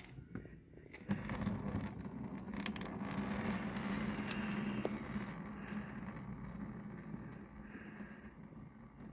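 Old engine oil pouring into a drain pan: a stream of splashing that starts suddenly about a second in, runs strongest for a few seconds, then slowly eases off.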